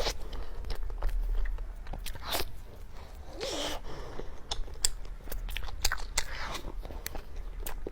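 A person biting into and chewing soft mochi matcha cake close to the microphone, with many small, irregular mouth clicks.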